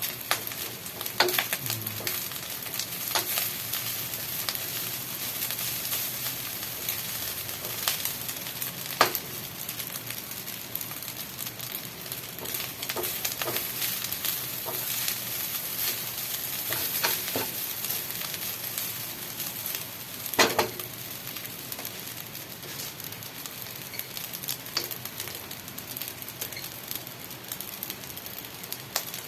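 Food sizzling as it fries in a pan, stirred with a utensil that clacks against the pan now and then, loudest once about twenty seconds in.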